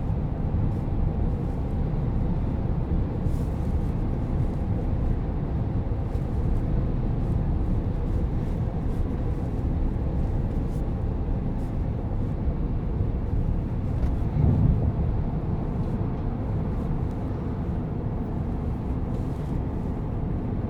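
Steady low road and tyre rumble inside the cabin of a moving Tesla Cybertruck, with a brief louder low thump about fourteen and a half seconds in.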